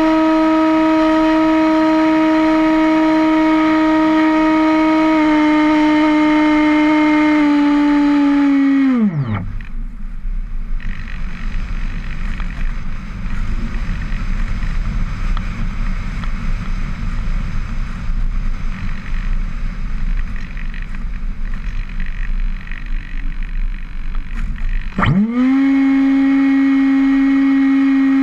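RC model airplane's motor and propeller whining at a steady pitch, then throttled down until it stops about nine seconds in, leaving rushing wind noise while the plane glides. Near the end the motor is throttled up again and comes back to a steady whine.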